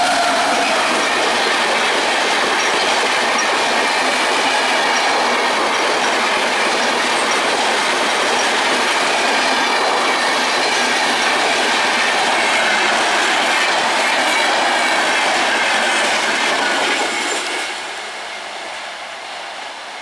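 Express passenger train passing close by at speed: steady loud rumble and clatter of coach wheels on the rails, with a faint high wheel squeal. The sound drops away sharply near the end as the last coaches pass.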